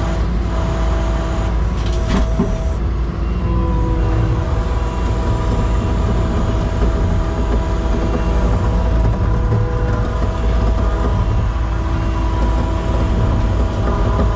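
Skid steer's engine running steadily under load while working the winch attachment, a heavy low drone with a steady whine over it.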